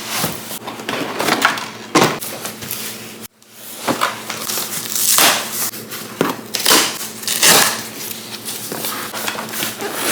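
Plastic and cardboard packaging being handled: irregular crinkling and crackling with sharp rustles, broken by a short pause about three seconds in. A faint steady low hum runs underneath.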